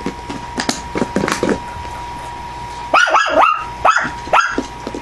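Havanese puppy giving a quick run of about five short, high-pitched yipping barks about three seconds in, after a few light knocks.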